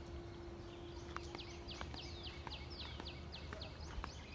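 A bird calling a quick run of short, high notes, each falling in pitch, about four a second, stopping shortly after the middle. The notes sit over faint rumbling background noise.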